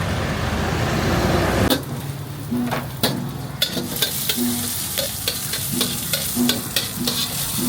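Kottu being stir-fried on a flat griddle: sizzling with irregular sharp metal clanks from the cooking blades. For the first second and a half a dense steady noise runs, then cuts off abruptly.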